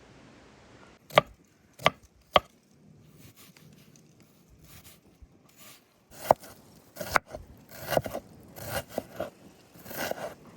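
Knife chopping on a wooden cutting board: three separate sharp chops about a second in, then a quicker, irregular run of chops in the second half.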